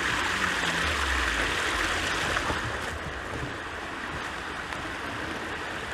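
Steady rush of a small waterfall, with water falling and splashing, easing slightly about three seconds in.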